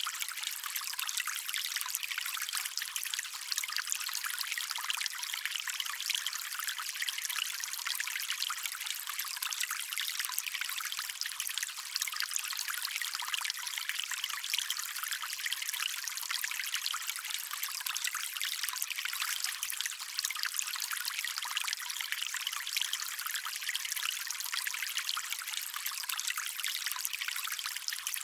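Water running and trickling in a stream, a steady even splashing with its sound sitting high and thin.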